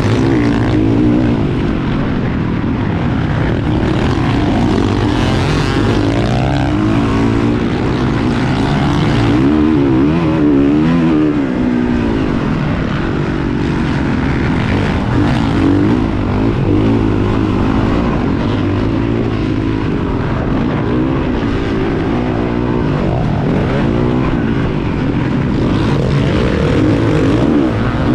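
Several motocross bikes' engines running on the track, revving up and dropping off over and over, with the pitches of different bikes overlapping and wavering.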